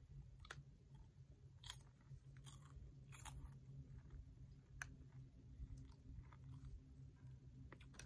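Faint chewing of crunchy popcorn balls: scattered short, crisp crunches over a low steady hum.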